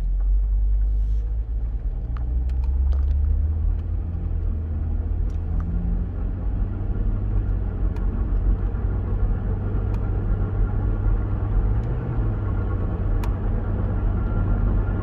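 A vehicle's propeller shaft running with a steady deep rumble, with a faint high whine over it in the second half. The owner suspects a bad bearing.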